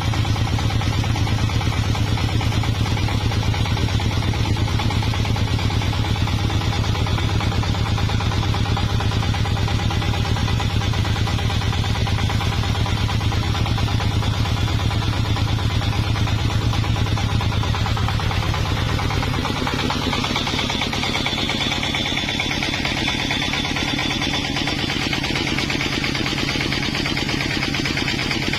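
Engine of a sawmill running steadily with a deep, pulsing hum. About two-thirds of the way in the sound changes: the low hum falls away and a higher, steady whine comes in.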